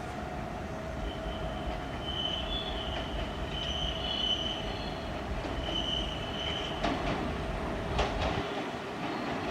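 Kintetsu out-of-service train running into the station, with a steady rumble and high wheel squeal that comes and goes through the middle. Near the end come a few sharp knocks, like wheels over rail joints.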